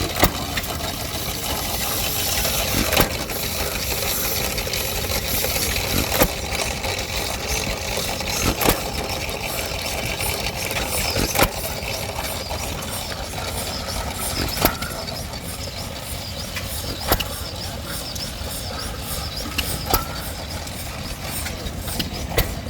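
Antique Stover CT-2 hit-and-miss gas engine running a cement mixer, firing with a single sharp pop about every three seconds and coasting between firings, over a steady hum of other engines.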